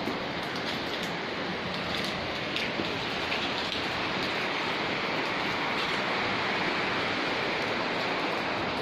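Steady rain falling, with scattered sharp drop ticks over the even hiss.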